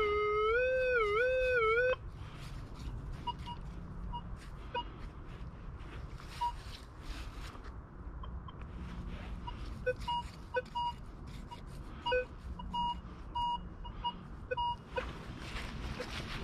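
Metal detector giving short irregular beeps in two tones, a higher and a lower one, as the coil is swept over the ground, with scraping and crunching from the coil and ground. For the first two seconds a loud, long wavering wail comes first, then cuts off.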